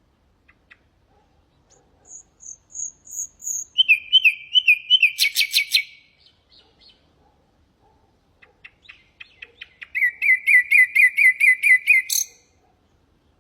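Common nightingale singing: two song phrases, each building from soft, spaced notes into a loud, fast run of repeated notes. The first opens with a few high piping notes; the second ends in a sharp burst.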